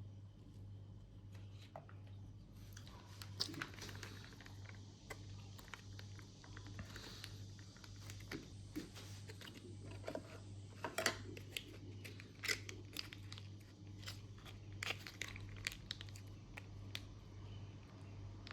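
Irregular crackling, crinkling and crunching from handling Humanitarian Daily Ration food and its packets, with sharp crackles densest around the middle. A steady low hum runs underneath.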